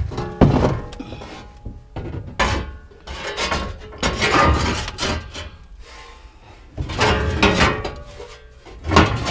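Scrap items being shifted and loaded by hand: irregular clanks, scrapes and thuds every second or two.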